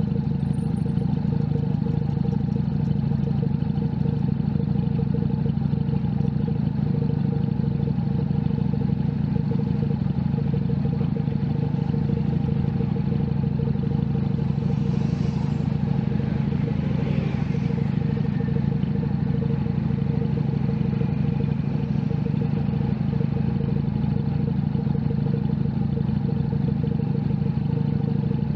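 Junak M11 Cafe's 125cc single-cylinder engine running at a steady speed while riding, its pitch hardly changing. A brief falling whoosh passes about halfway through.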